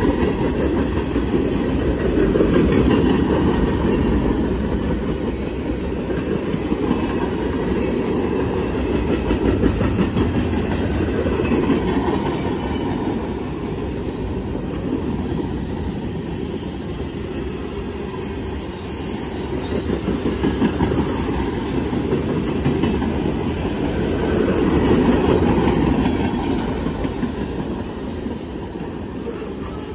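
Freight train tank cars and hoppers rolling past on steel rails: a steady rumble with the clickety-clack of wheels over the rail joints, swelling and easing in waves as the cars go by.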